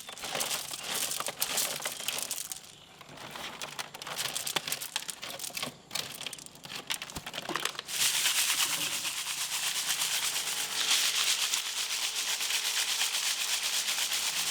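Snail shells clicking and rattling against each other as a batch of snails is poured out and sifted, sparse at first, then a thick continuous clatter from about halfway through.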